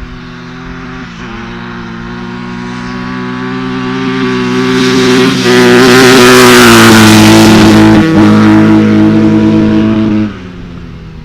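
A dirt bike engine running and growing steadily louder as it comes near. It is loudest around two-thirds of the way through, then drops off abruptly about a second before the end.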